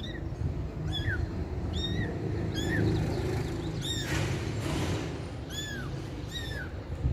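Kittens mewing over and over, thin high-pitched calls that rise and fall, about one a second, over a steady low background rumble. About four seconds in there is a brief rushing noise lasting roughly a second.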